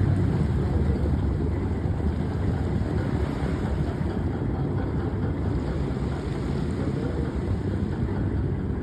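Steady low rumble of the Sandbanks chain ferry's engines running during the crossing, with a noisy hiss above it.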